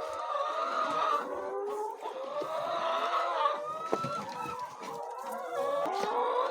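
A flock of chickens clucking, with many birds calling over one another in a continuous chatter.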